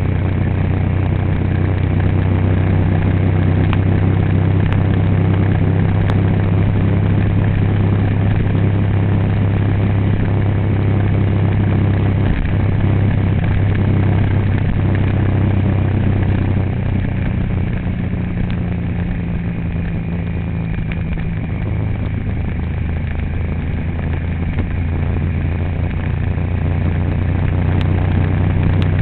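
A vehicle's engine running with a steady low drone. It eases off a little past halfway and picks up again near the end.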